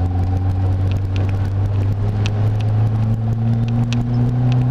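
Turbocharged Volkswagen Fusca (Beetle) engine heard from inside the cabin, pulling steadily with its pitch slowly rising, over scattered light ticks and rattles.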